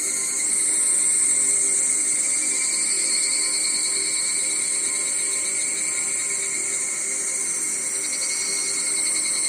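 Steady high-pitched chorus of insects, a continuous shimmering buzz-trill with no breaks.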